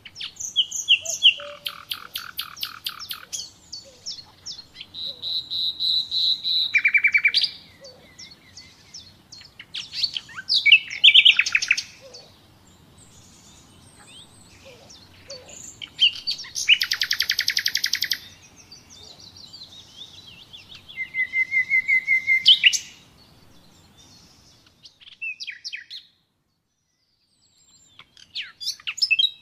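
Common nightingale singing in separate phrases of rapid repeated notes, trills and series of notes that swell in loudness, with short pauses between phrases. The sound drops out entirely for about two seconds near the end, then the song resumes faintly.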